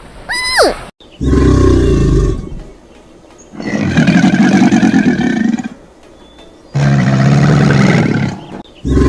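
A big cat roaring: a series of loud, deep roars, each one to two seconds long, with short pauses between them. A brief gliding electronic tone sounds at the very start.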